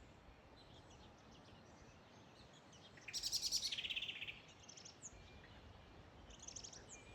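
Songbirds singing in the early morning, faint against a low background hiss; about three seconds in a bird gives a loud, rapid trill of high notes lasting just over a second, followed by shorter chirping phrases.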